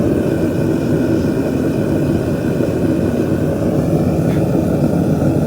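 Forge running with a loud, steady rushing noise and faint steady tones above it, while a flux-coated billet heats toward forge-welding temperature.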